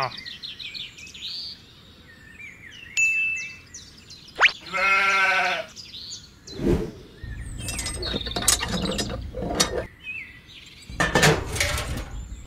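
A sheep bleat, one wavering call of about a second, comes about five seconds in, just after a quick rising whistle. Short sound effects and clicks are scattered through the rest.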